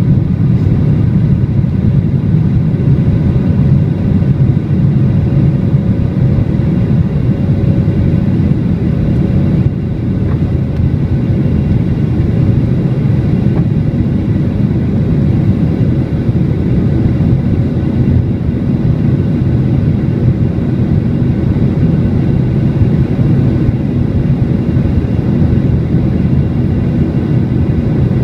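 Jet airliner engines and airflow at take-off, heard from inside the cabin. A loud, steady rumble runs throughout, with faint steady whining tones above it and a small dip in level about ten seconds in.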